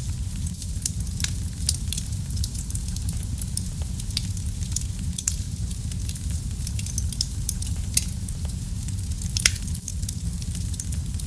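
Wood fire burning in a fireplace: a steady low rumble of flames with constant crackling, and two louder pops near the end.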